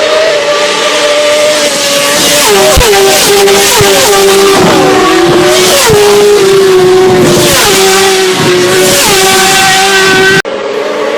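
Several high-revving sport motorcycles passing at speed, one after another and overlapping, each engine's pitch dropping as it goes by. The sound breaks off suddenly for a moment near the end.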